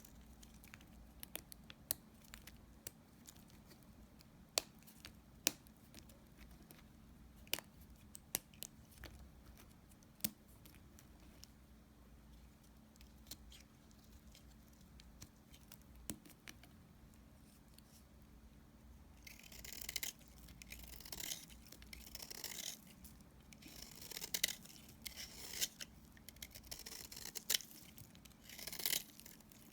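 Dry soap remnants being cut with a blade: scattered crisp clicks and cracks at first, then, about two-thirds of the way in, a run of denser crunching cuts.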